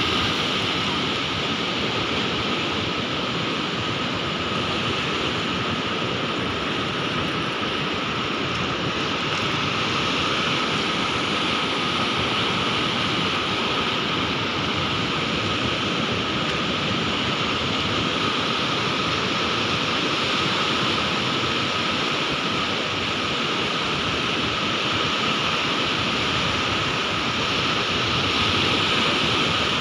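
Sea waves: a continuous rush of surf at a steady level that swells slightly now and then.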